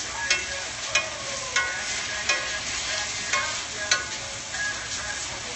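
Steak, shrimp and onions sizzling in a skillet while being stirred. A utensil knocks and scrapes against the pan about six times over the steady sizzle.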